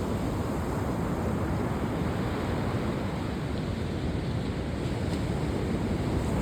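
Steady low rushing noise of wind and water outdoors, with no engine tone or distinct splashes.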